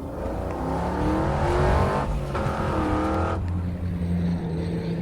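Car engine accelerating hard, its pitch rising, dropping at a gear change about two seconds in, rising again, then settling to a steadier drone.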